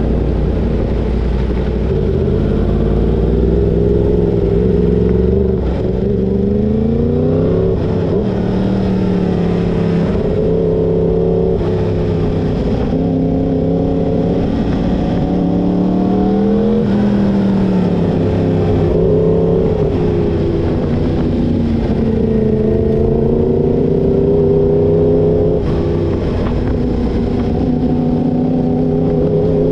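Yamaha crossplane inline-four sport-bike engine (MT-10 / R1) being ridden hard: the engine note climbs under throttle and drops at each gear change or roll-off, over and over, with a shift or throttle chop every couple of seconds.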